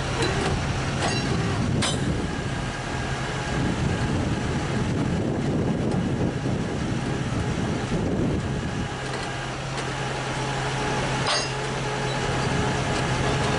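Tow truck engine running steadily, with rougher mechanical noise through the middle and a few sharp metallic clinks.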